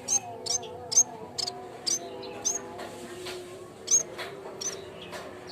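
Yellow-bellied warbler (cikrak bambu) giving short, sharp, high chirps in a quick irregular series, about two a second, with a brief pause near the middle.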